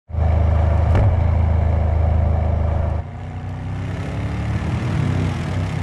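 Mercedes-AMG M177 twin-turbo V8 engine running with a loud, steady low rumble. About three seconds in, the sound cuts abruptly to a quieter engine note whose pitch slowly rises as the car pulls away.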